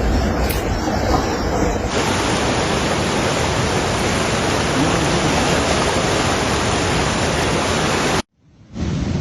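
Rushing floodwater: a steady, even rush of water noise. It changes abruptly about two seconds in and cuts out briefly near the end.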